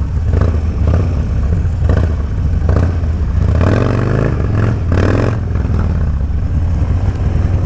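Motorcycle engine running with a steady low rumble and a few clattery knocks, its note rising and falling a couple of times near the middle.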